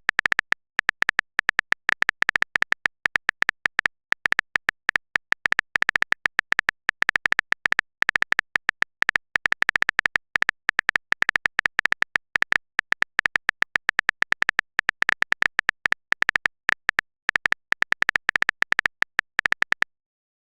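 Rapid, irregular clicking of a keyboard typing sound effect, many clicks a second, each with a bright tick; it stops cleanly about a second before the end.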